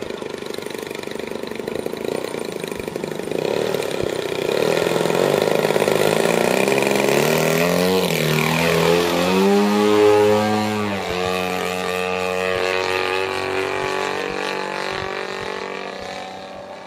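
The 120cc gasoline engine of a giant-scale Edge 540 radio-controlled aerobatic plane running in flight. It grows louder, its pitch swings up and down in the middle, and it fades near the end.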